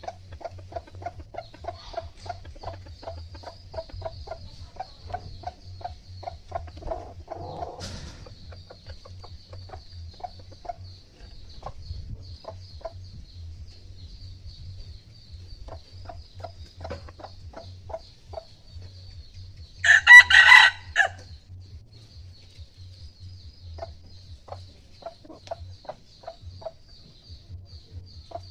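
Decoy chickens clucking: a quick run of short clucks, two or three a second, then scattered clucks, and about twenty seconds in one loud crow lasting about a second.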